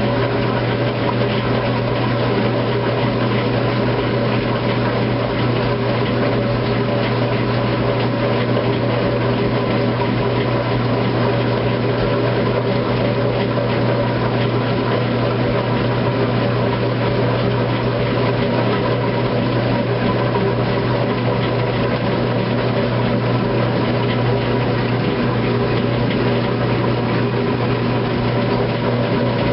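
A 2008 Kenmore washing machine and a clothes dryer running together mid-cycle: a steady, even machine hum with no breaks or changes.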